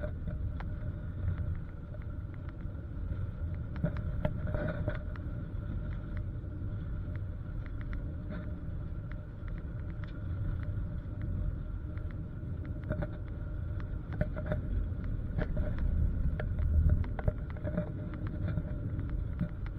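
Car engine and road noise heard from inside the cabin as the car is driven hard: a steady low rumble with a faint constant whine and scattered small knocks and ticks.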